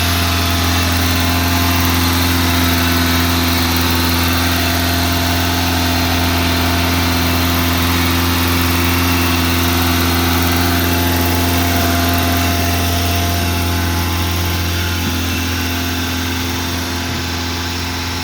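1987 Honda Accord four-cylinder engine running steadily at a high idle, easing slightly near the end. The fast idle will not kick off, so the engine holds around 2500–3000 rpm.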